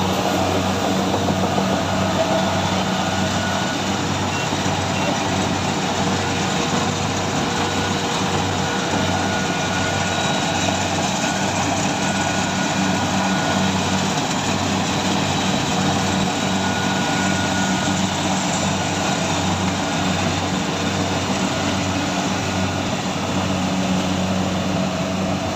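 Heavy farm harvesting machine running steadily under work, its engine a constant low hum that pulses in an even rhythm over a wash of mechanical noise.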